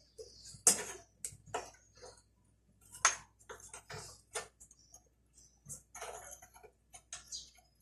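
Irregular metal clicks and clinks from working on a motorcycle chain by hand, with two louder knocks and a brief scrape.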